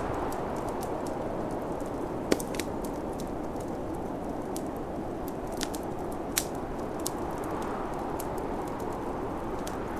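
Wood fire crackling, with scattered sharp pops, the loudest about two seconds in and again past six seconds, over a steady rushing snowstorm wind.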